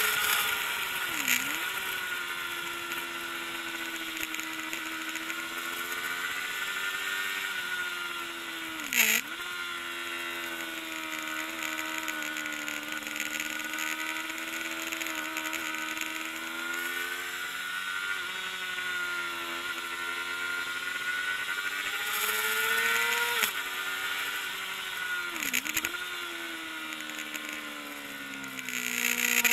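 Kawasaki ZXR400 inline-four four-stroke engine running hard on track, its revs rising and falling steadily, with a few quick sharp drops in revs that recover at once. There is a short knock about nine seconds in.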